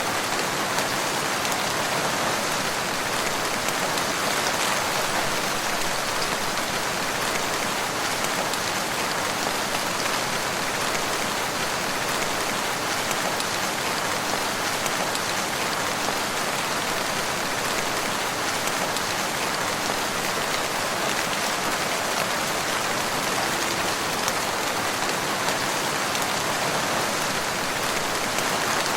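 Steady rain falling in a wood, a dense even hiss of drops pattering on leaves and ground.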